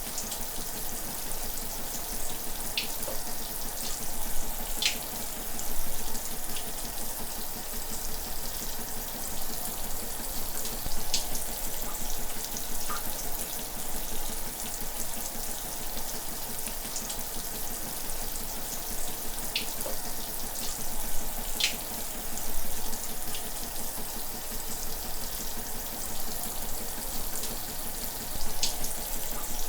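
Shower running: a steady hiss of falling water spray, with now and then a brief brighter splash of drops standing out.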